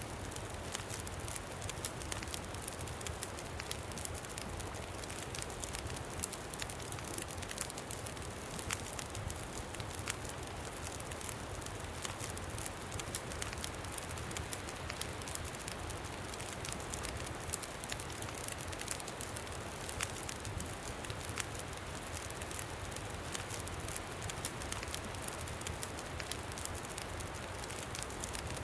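Campfire crackling with scattered sharp pops over a steady low rush of wind.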